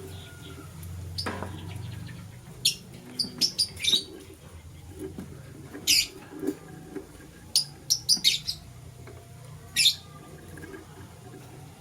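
Lovebirds chirping: short, sharp, high chirps, some single and some in quick runs of three or four, over a steady low hum.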